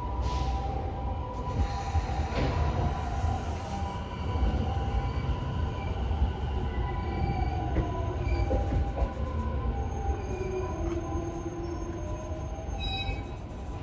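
Sotetsu electric commuter train pulling into the platform and braking to a stop: the wheels squeal, and a motor whine falls in pitch as the train slows, over a low running rumble.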